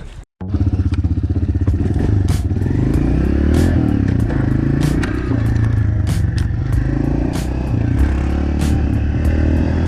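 Dirt bike engine running steadily with a low, even rumble, and a sharp tick every second or so.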